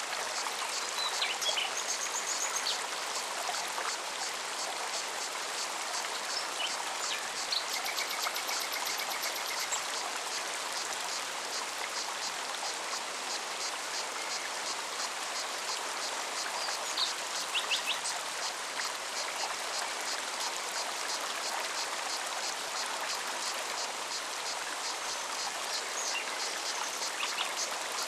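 Forest stream running steadily over rocks, with a cicada's fast, even pulsing song above it and a few short bird chirps scattered through.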